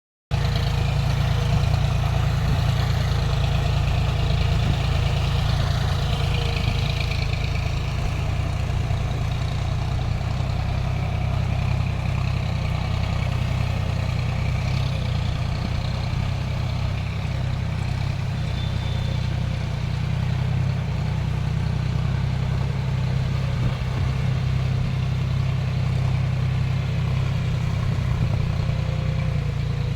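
John Deere tractor engine running steadily at an even speed, a low drone with no revving.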